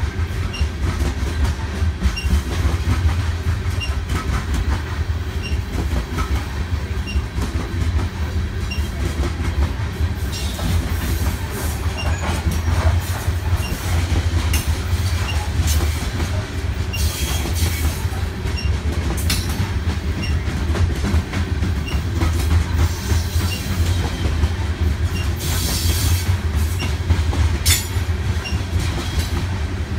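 BNSF coal train's cars rolling steadily past with a low rumble and clickety-clack of wheels over rail joints. High-pitched wheel squeals break in several times, around a third of the way in, past the middle, and near the end.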